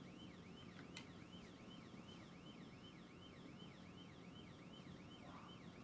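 Police siren in rapid yelp mode, faint, its pitch sweeping up and down about four times a second. There is one short click about a second in.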